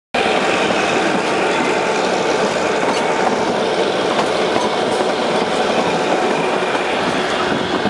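Diesel-hauled Kalka–Shimla narrow-gauge train running along the track, heard from a coach window: a steady, loud rush of running noise.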